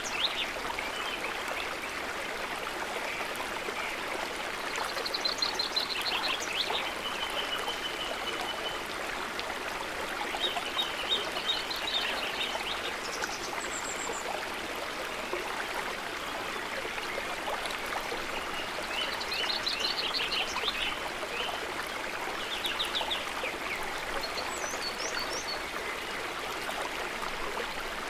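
A stream running steadily, with birds chirping and trilling in short phrases over it several times.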